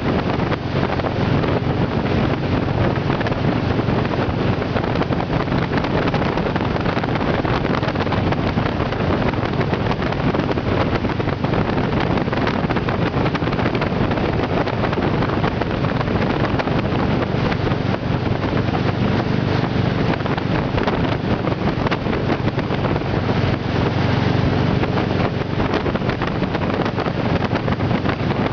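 Motorboat engine running steadily, with heavy wind noise on the microphone.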